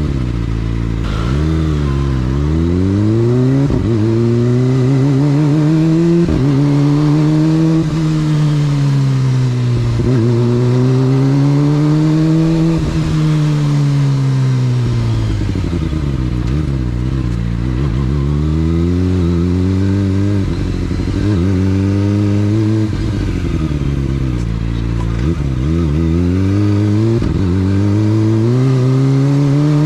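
Motorcycle engine under way, its pitch rising and falling over and over as the bike accelerates, shifts gears and slows.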